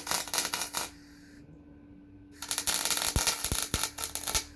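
Two bursts of MIG welding crackle, a short one at the start and a longer one of about two seconds from halfway through, as short runs of weld are laid along the car's pinch welds. A steady low hum runs underneath.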